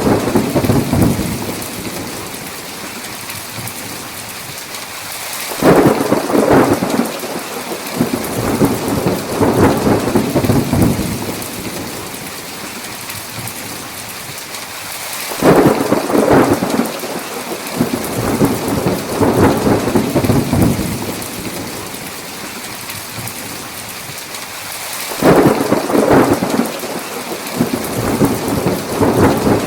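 Thunderstorm: steady heavy rain with thunder. Three peals break sharply about every ten seconds, and each rumbles on for several seconds before fading back into the rain.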